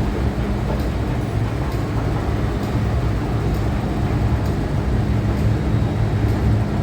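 MTR Tsuen Wan line Q-train sound: a steady low rumble with a constant hum, and a faint tick about once a second.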